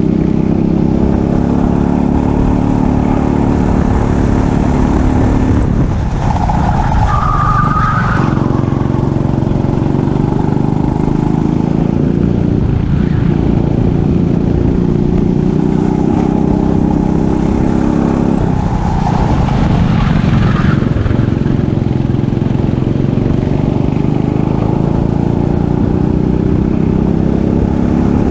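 Kart engine running hard at racing speed. Its note breaks and climbs back twice, about six seconds in and again about two-thirds of the way through, as the driver lifts for corners and accelerates out.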